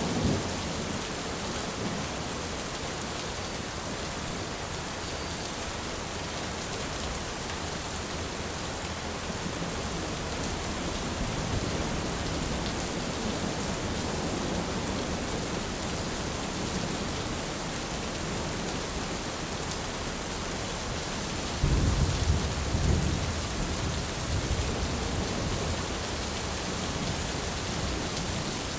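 Thunderstorm: steady rain hissing throughout, with the tail of a thunder roll dying away at the start. About three-quarters of the way in, a low rumble of thunder breaks in suddenly and rolls on for several seconds.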